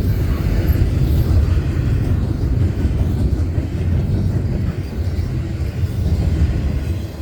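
Union Pacific double-stack container train rolling past, its wheels and cars making a steady low rumble.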